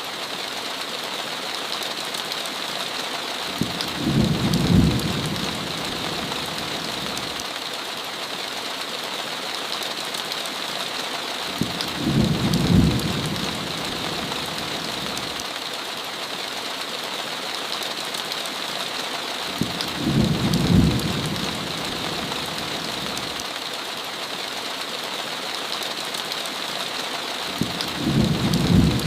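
Steady heavy rain hissing, with a low rumble of thunder about every eight seconds, four times, each lasting about two seconds and louder than the rain.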